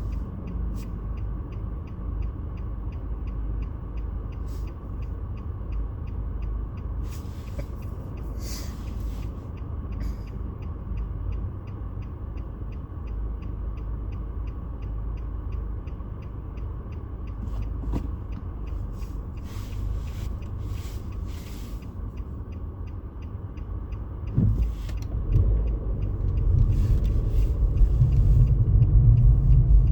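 Steady low rumble with a few brief hisses, growing louder near the end.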